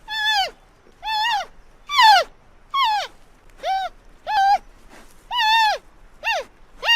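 An animal calling over and over: about nine short, high calls, each rising then falling in pitch, a little under a second apart.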